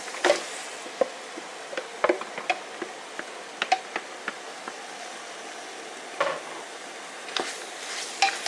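Raw chicken going into a pot of fried red curry paste and oil, with a steady sizzle and irregular knocks and scrapes of a utensil against the pot as it is stirred in.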